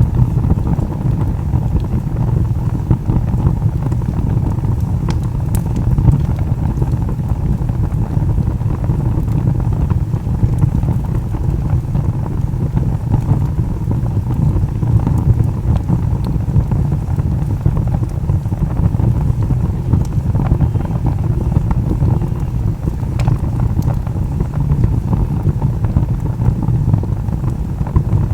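Wood log fire burning with a steady low rumble and a few sharp crackles and pops.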